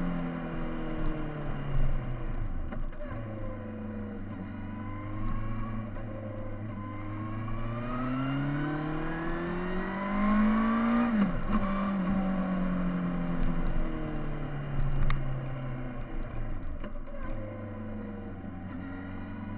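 Kawasaki Z1000 inline-four engine running while being ridden. The engine note drops and settles, then climbs steadily from about eight seconds in, falls off sharply at about eleven seconds, and eases down again, with a steady rush of noise underneath.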